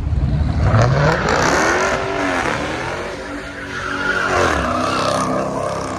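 A car engine revving hard, its pitch climbing about a second in and then rising and falling, with tyres screeching as they spin: a car doing a burnout or stunt.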